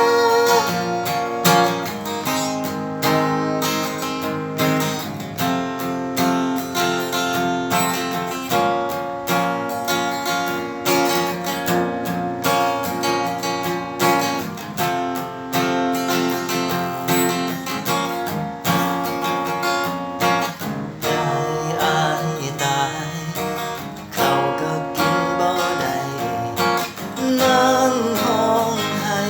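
Instrumental break in a Lao-language song: acoustic guitar strummed in steady chords, with no voice.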